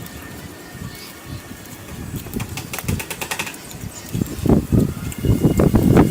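Close-up eating sounds of a person chewing and smacking a mouthful of curry: a run of sharp clicks partway through, then denser, louder wet chewing near the end.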